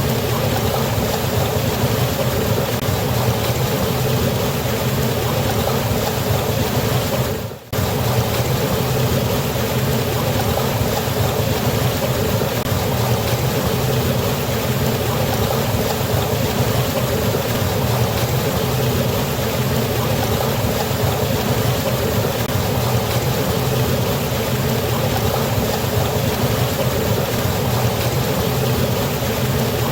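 Waterfall's steady rush of falling water, with a brief dip in level about seven and a half seconds in.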